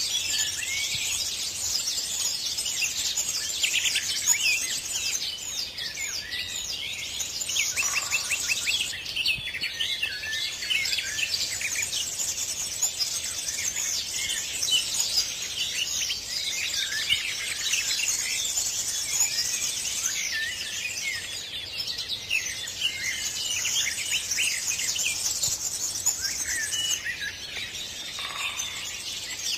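A dense chorus of many birds chirping and singing at once, with overlapping quick chirps and trills that never stop.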